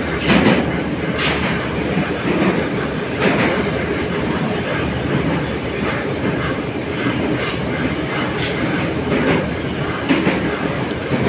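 81-717.5 metro car running at speed through the tunnel, heard from inside: a steady rumble with irregular clicks of the wheels over the rail joints.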